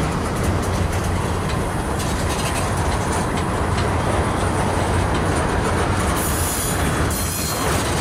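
Freight train gondola cars rolling past, being shoved in reverse: a steady rumble of steel wheels on rail with a few clicks, and a high wheel squeal coming in near the end as the cars work around a curve.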